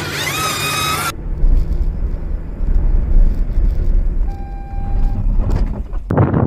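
Road vehicle sound: a heavy low rumble of engine and road noise with loud swells. A brief steady tone sounds for about a second around four seconds in, and a sudden loud noisy burst starts near the end.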